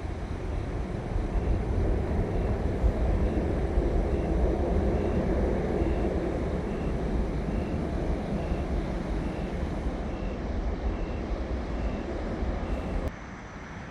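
Airplane passing overhead: a broad engine rumble swells to a peak and slowly eases, then cuts off suddenly near the end.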